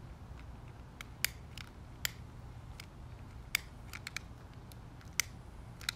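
Handheld lighter being flicked over and over without catching: about six sharp clicks at uneven intervals. The old lighter is not sparking well.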